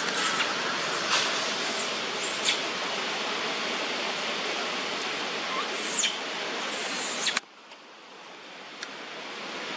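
Several short high-pitched squeaks from monkeys over a steady noisy hiss; the hiss drops away abruptly about seven seconds in.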